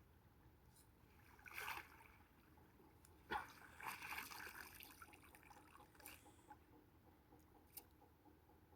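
Faint water splashing and trickling in two bursts: a short one about a second and a half in, and a longer one from about three seconds in that starts with a sharp hit and dies away by about six seconds.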